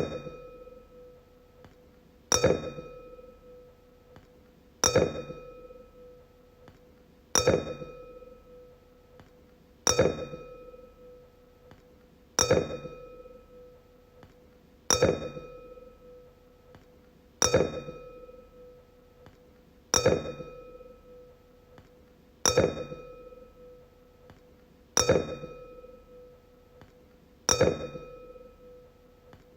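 Wine glass struck over and over, about once every two and a half seconds. Each strike rings with a clear tone and higher overtones that die away before the next one.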